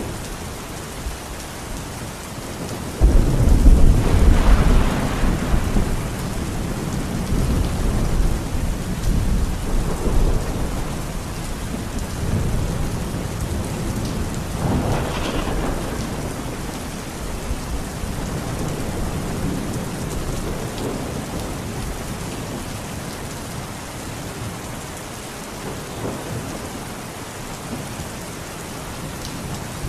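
Steady rain with thunder: a sudden loud thunderclap about three seconds in that rolls on for a few seconds, and a fainter roll of thunder around the middle.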